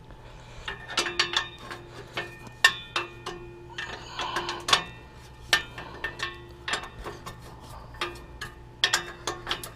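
Metal tools and hardware clinking and tapping as an exhaust hanger bolt is fitted and tightened: irregular sharp metallic clicks, several ringing briefly.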